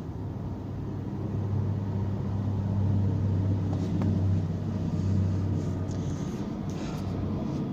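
A motor vehicle's engine rumbling, swelling for a few seconds and then easing off, as of a vehicle passing on the road.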